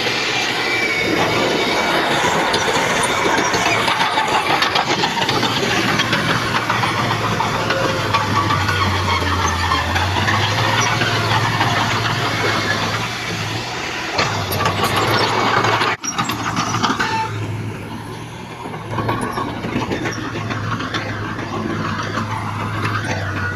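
Heavy diesel earthmoving machinery running, its engine hum under a dense clatter and grinding. Sound drops out abruptly about two-thirds of the way through, then continues a little quieter.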